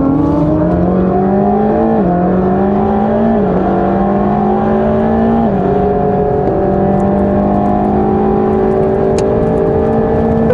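Mercedes-AMG GT Black Series' twin-turbo flat-plane-crank V8 under hard acceleration. Its note climbs, drops sharply at upshifts about two, three and a half and five and a half seconds in, then climbs slowly again.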